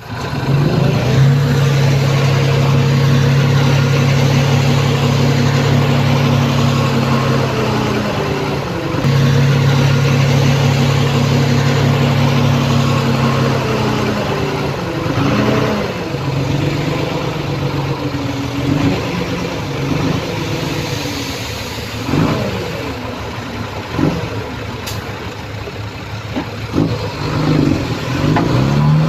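Heavy diesel engine of earthmoving machinery running at a steady high pitch, with a brief dip about eight seconds in. From about fifteen seconds in, its pitch rises and falls again and again.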